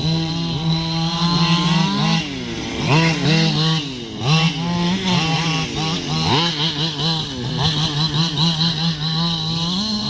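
Radio-controlled cars' motors revving up and down in quick throttle bursts as they run around the track, over a steady high whine.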